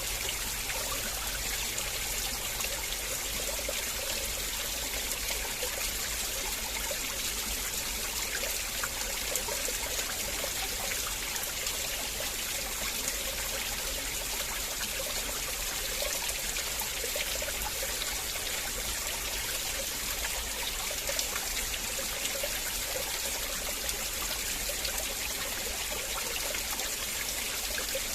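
River water flowing and trickling steadily over stones, a constant splashing babble with fine little splashes throughout.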